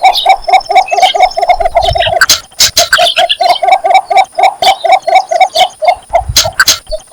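Cinnamon bittern calling for a mate: a long, fast run of short, low clucking notes, about five a second, with a brief break about two seconds in and another near the end. Sharp clicks sound over it.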